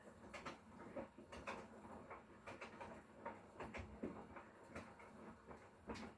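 Hotpoint Core 8 kg washing machine making faint, irregular soft clicks and taps, about one or two a second, with no steady motor hum.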